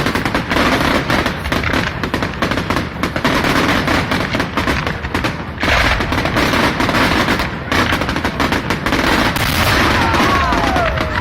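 Fireworks display, with rapid, continuous bangs and crackles from shells and barrages going off one after another. A falling whistle is heard near the end.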